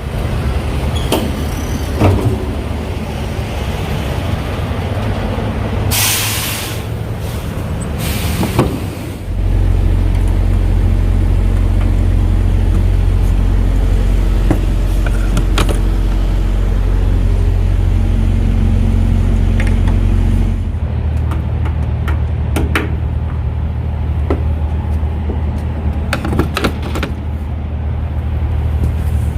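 Semi truck's diesel engine running, with two short hisses of released air about six and eight seconds in. The engine then runs louder and heavier for about eleven seconds before dropping back to a lower hum, with scattered clicks and knocks.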